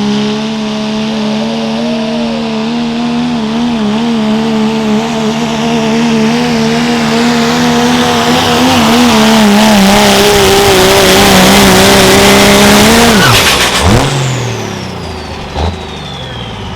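Diesel pulling truck's engine held at high revs under load as it pulls the sled, rising in loudness, then dropping off sharply about thirteen seconds in as the driver lets off and the revs fall away. A short knock follows near the end.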